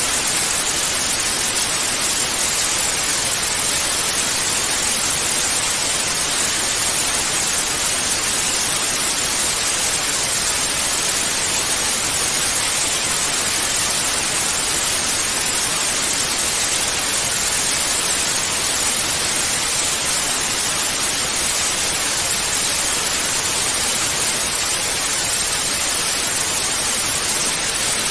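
Television static (white noise): a steady, even hiss, brightest in the high frequencies, unbroken throughout.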